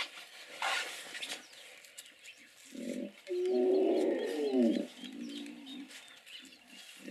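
Hippopotamus calling: one loud, deep call of about two seconds, beginning about three seconds in, then a few shorter, quieter calls.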